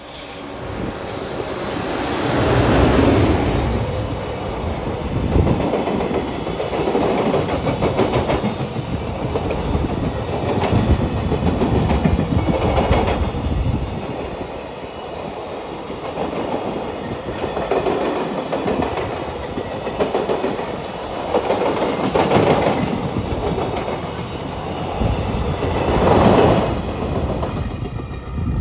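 A JR Freight EF210 electric locomotive passes close by a couple of seconds in. A long container freight train follows, its wagons clattering over the rail joints in swells every couple of seconds until the train has gone by at the end.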